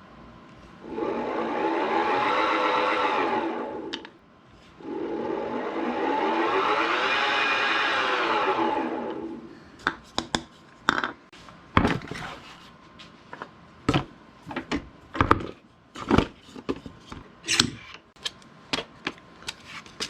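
Small electric drill with a number 61 bit running twice, each for about three to four seconds, its pitch rising and then falling as the motor speeds up and winds down, drilling pilot holes for screw eyes in small turned wooden trees. A string of light clicks and taps follows in the second half.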